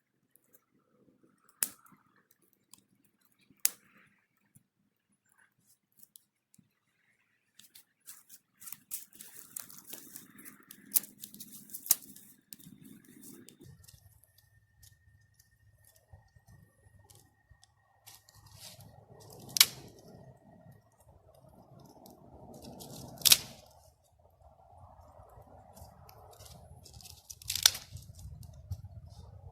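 Handling noises: a few sharp knocks or clicks, with a stretch of crackly rustling and tearing between them. A low steady rumble comes in about halfway.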